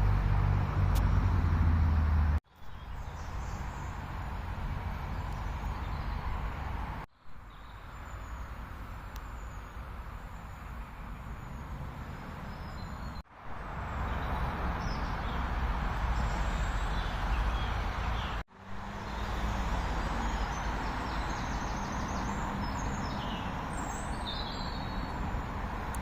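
Steady roar of traffic on a main road, with small birds chirping over it. The sound drops out briefly four times.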